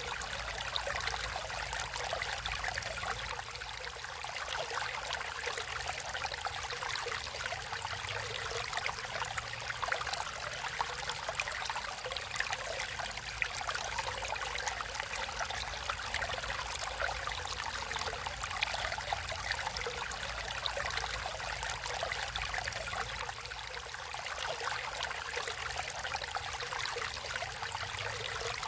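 Stream water flowing and trickling steadily, a continuous splashing babble without pauses.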